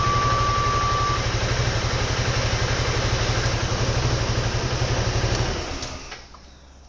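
Suzuki Burgman 400 scooter's single-cylinder engine running with an even, steady throb, dying away near the end. A thin high whine sounds over it for about the first second, then stops.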